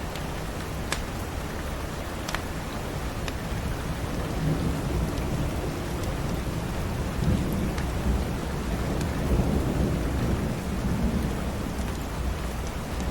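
Steady rain with a low rolling rumble of thunder that builds about four seconds in and eases off near the end. A few sharp pops of a crackling wood fire come through now and then.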